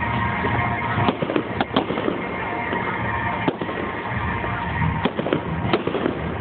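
Fireworks display, heard through a phone's microphone: a string of sharp bangs and crackles, the strongest about a second in, near two seconds, midway and near the end, over a continuous din with music playing underneath.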